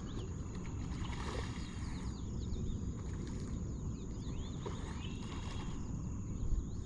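Many short bird chirps scattered throughout over a steady low rumble of wind and water, with a thin high steady whine.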